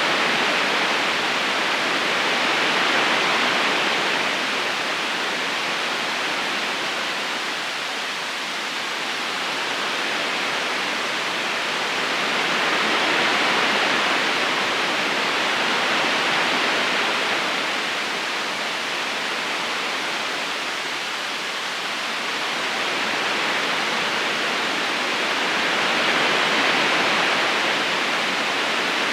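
A river current flowing steadily over stones, an even rush of water that slowly swells and eases.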